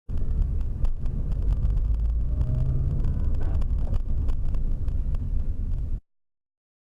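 Steady low rumble of a car's engine and road noise as picked up by a dash cam's microphone, with scattered small clicks and knocks. It starts abruptly and cuts off suddenly about six seconds in.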